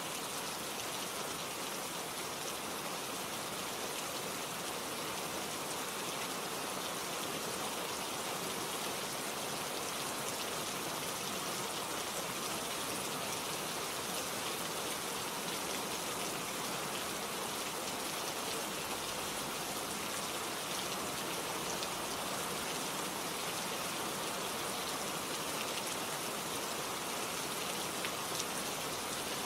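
Steady rain falling, with fine pattering drops on surfaces. The level holds even throughout.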